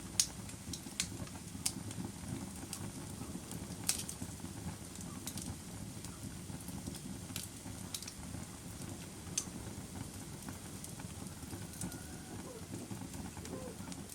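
Campfire burning: a steady low rush of flame with irregular sharp crackles and pops from the burning wood, the loudest pops near the start and about four seconds in.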